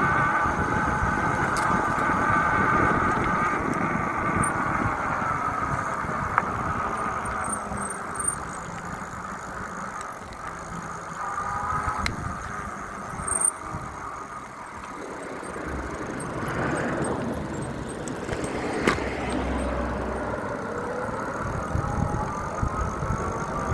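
Road noise while riding: wind rumbling on the microphone under a vehicle engine whose pitch slowly rises and falls, with a few sharp clicks along the way.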